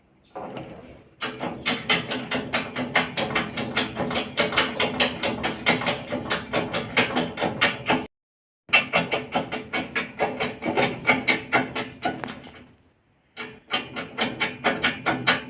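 Hand ratchet wrench clicking rapidly and evenly in long runs. It stops briefly about eight seconds in and again near the end.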